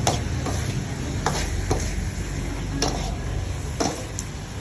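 Baby squid sizzling in a pan of fish-sauce sauce while being stirred, a utensil knocking sharply against the pan about six times at uneven intervals.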